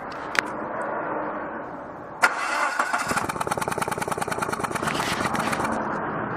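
2000 Mazda Protege's 1.6 four-cylinder engine being cranked and started. There is a sharp crack about two seconds in, then fast, even pulsing that fades out near the end.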